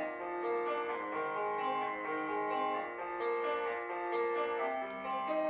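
Instrumental music: a plucked guitar playing a melodic line of held notes, with no singing.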